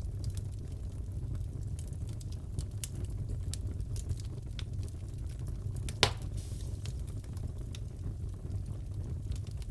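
Crackling fireplace: a steady low rumble from the fire with scattered small crackles and one loud pop about six seconds in.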